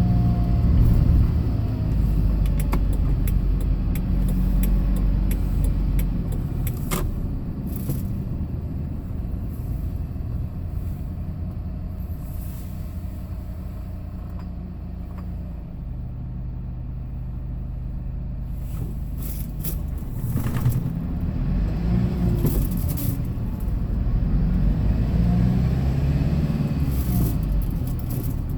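Hyundai Porter II box truck driving, with a steady engine and road rumble. The engine note holds for a while, then falls and rises several times in the second half as the truck slows and picks up speed.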